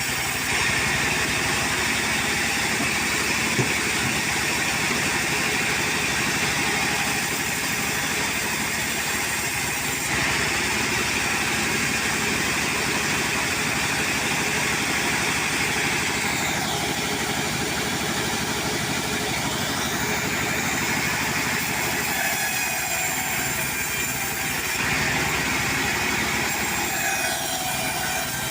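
Portable sawmill's engine running steadily, its pitch sagging and recovering around the middle and again near the end.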